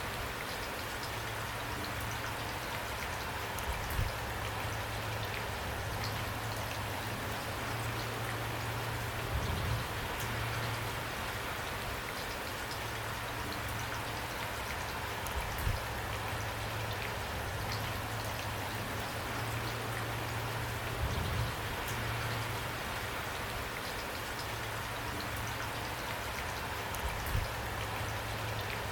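Steady rain falling, an even hiss of drops on a surface, with a few brief louder low thuds about every five or six seconds.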